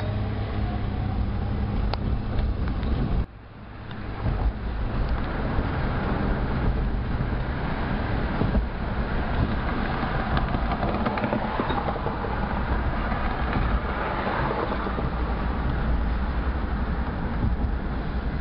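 Steady rumbling vehicle noise from a passing BNSF freight train mixed with road traffic. It drops out suddenly about three seconds in, then builds back up.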